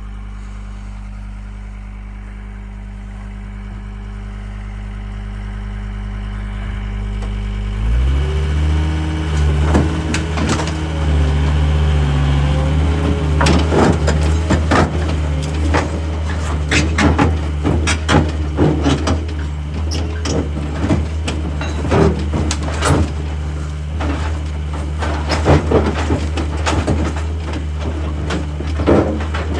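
A machine's engine running steadily, then revving up about eight seconds in and staying under load. Over the engine come repeated crunching and knocking impacts as the forks break up and shift the wreckage.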